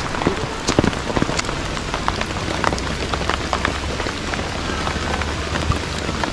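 Steady rain falling on a camping tent's fabric, with many sharp single drop hits ticking through the hiss.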